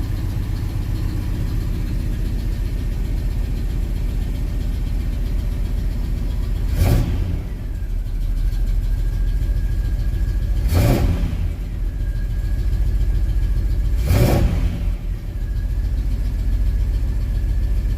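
Oldsmobile 442's V8 engine running at a steady idle, with three brief revs of the throttle spaced a few seconds apart.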